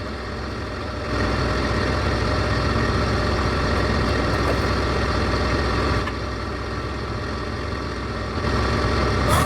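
TYM T474 tractor's diesel engine running steadily. It gets louder about a second in, eases off slightly around six seconds, picks up again near the end, then cuts off suddenly.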